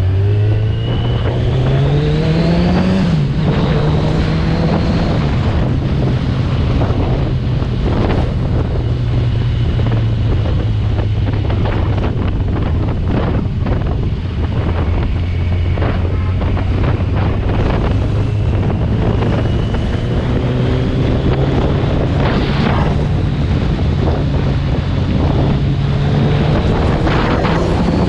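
Superbike engine heard from on board, revving up in the first few seconds and then running steadily at cruising speed, with wind rushing over the microphone.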